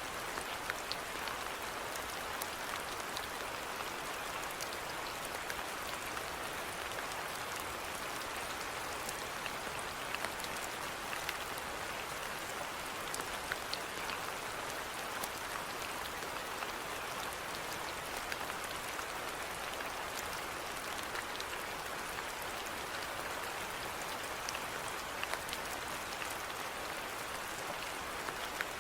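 Steady rainfall, an even hiss with many individual drops ticking on a surface.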